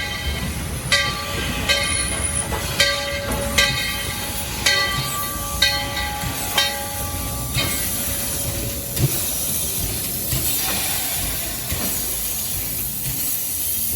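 Steam locomotive of the Dollywood Express: its bell rings in short strikes about once a second for the first half, then a steady hiss of steam takes over.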